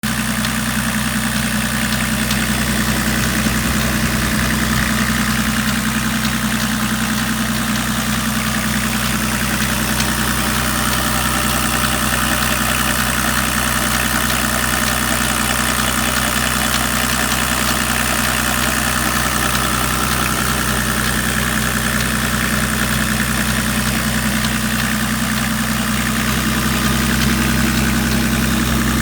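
BMW 525 tds (E34) turbodiesel straight-six idling steadily, making the abnormal engine noise the owner is recording.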